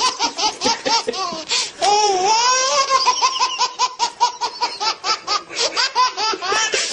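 A baby laughing hard in quick, rapid bursts, with a longer drawn-out squeal about two seconds in before the rapid laughing resumes.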